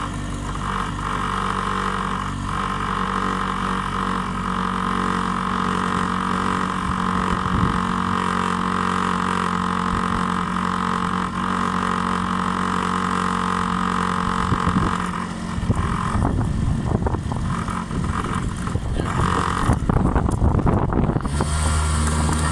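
Honda 50cc scooter engine running steadily under way for about fifteen seconds, then the sound turns uneven and choppy for the rest.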